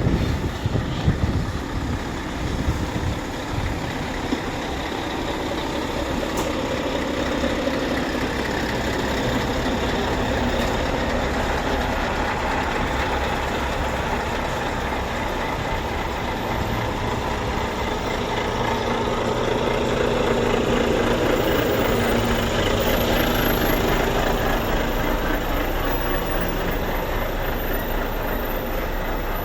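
Heavy truck engines running steadily as the trucks arrive, swelling a little louder about two-thirds of the way through.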